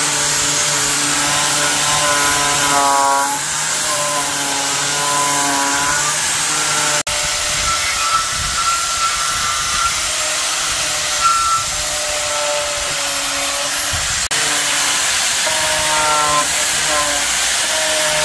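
Power tool motor running steadily, its pitch dipping and recovering several times as it is loaded, with two abrupt breaks.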